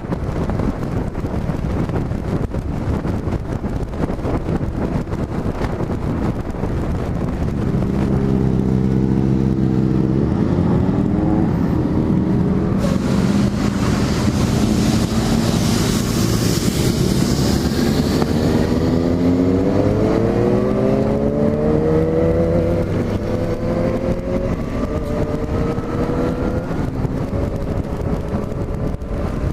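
Yamaha XJ6 F's inline-four engine, its stock exhaust drilled for a sportier note, under way with wind rushing over the microphone; after several seconds of mostly wind, the engine note holds steady and then climbs in pitch as the bike accelerates, drops briefly and climbs again near the end.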